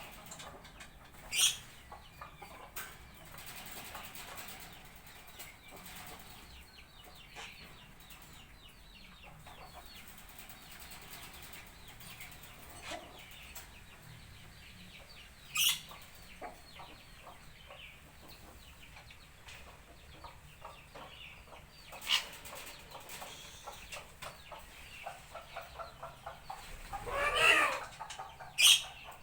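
Parrots squawking and chattering: a steady background of short calls, a few sharp high shrieks, and one longer, louder harsh squawk near the end.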